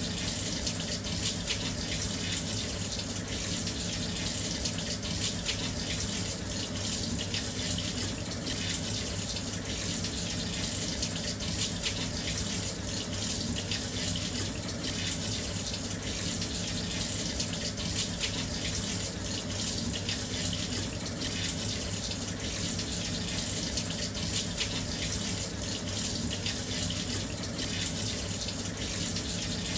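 Washing machine filling with water: a steady, even rush of water flowing into the drum.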